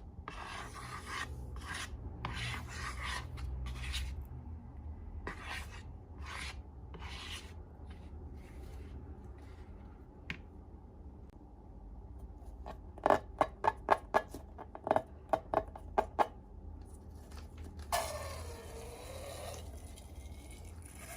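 Slime being worked by hand near the microphone. First come repeated rubbing, scraping strokes, about two a second. Then, about two-thirds through, a quick run of about ten sharp snapping pops, and near the end a brief squeaky smear.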